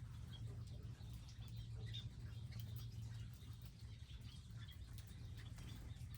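Small wild birds chirping, with many short scattered chirps, over a steady low hum.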